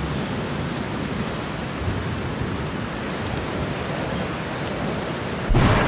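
A steady, even hiss like rain falling, with faint scattered ticks. About five and a half seconds in it cuts abruptly to a louder, muffled low rumble.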